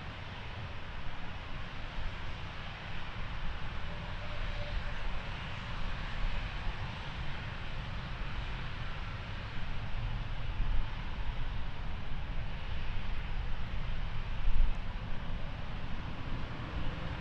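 Jet engine noise of a departing Airbus A321neo (A321-271NX) with Pratt & Whitney geared turbofan engines: a steady broad rush over a deep rumble. It grows louder about a second in and again about ten seconds in.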